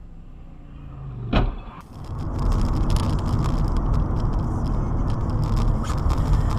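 A single sharp thump about a second and a half in, then loud car driving noise: steady engine and road rumble with crackling clicks, as picked up by a dash camera.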